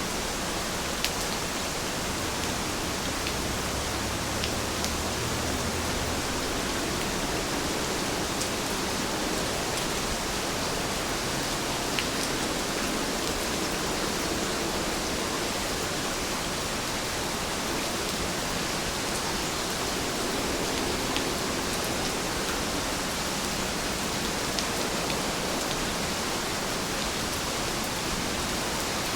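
Steady rain falling, an even hiss, with a few sharper drop ticks here and there.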